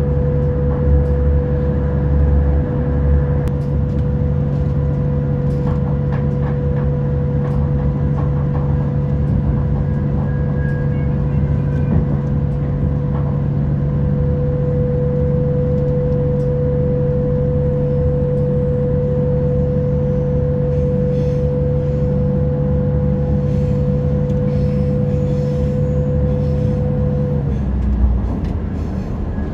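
Diesel passenger train heard from inside the carriage: a steady hum and low rumble of running gear, with scattered clicks. The hum stops sharply near the end.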